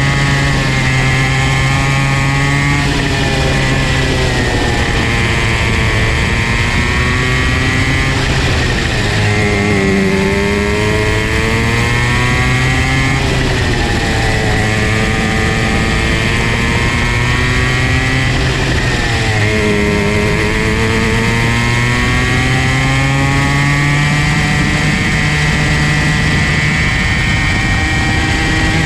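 Comer C50 two-stroke kart engine running hard, its note falling and climbing again several times, most deeply about ten and twenty seconds in, as the kart lifts off for corners and accelerates out.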